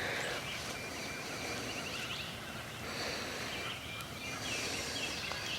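Wild birds chirping and trilling faintly, with short high notes and a quick trill near the middle, over a quiet outdoor background.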